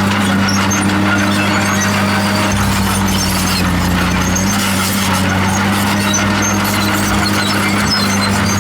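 Komatsu D51PX crawler bulldozer working: its diesel engine runs steadily at a constant pitch under the clatter and squeal of its steel tracks.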